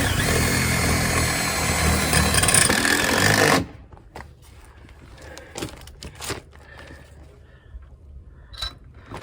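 A power tool runs loudly for about three and a half seconds and cuts off suddenly. A few scattered knocks and clicks follow, and the tool starts again just at the end.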